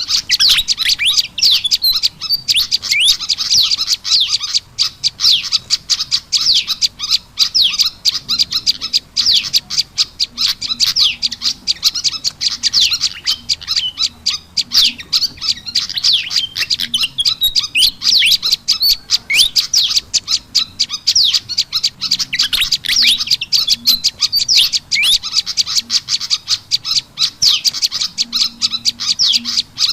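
Bird-lure recording of prenjak lumut calls combined with agitated calls of the kipasan (fantail): a dense, unbroken run of fast, high chirps and sharp clicks.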